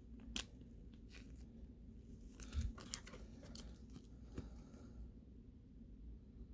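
Faint rustling and light clicks of plastic as trading cards are slid into protective plastic sleeves and cases, in scattered short bursts.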